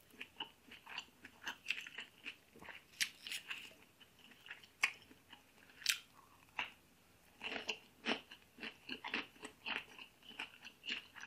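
A person chewing a mouthful of fresh leafy greens, with irregular soft crunches and mouth sounds.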